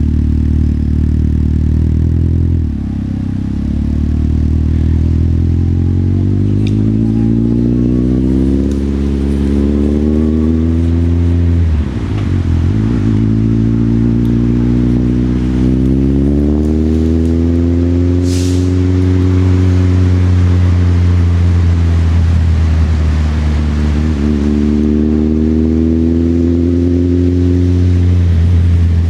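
Motorcycle engine pulling through the gears. Its note rises steadily and falls back at each of three shifts, a few seconds in, about twelve seconds in and near the end.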